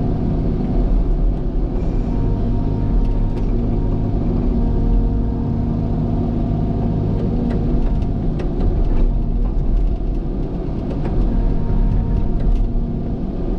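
Heavy earthmoving machine's diesel engine running steadily under work, with a deep low hum, a few light ticks and clanks over it.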